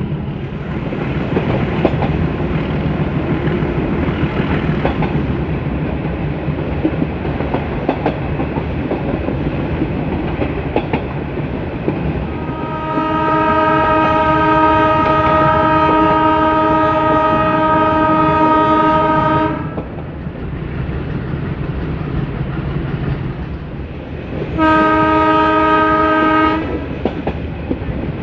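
A YDM4 diesel locomotive hauling a metre-gauge train: steady running noise with an engine drone and wheels clicking over the rail joints. About halfway through, the locomotive's horn sounds one long blast of about seven seconds, and then a shorter blast of about two seconds near the end.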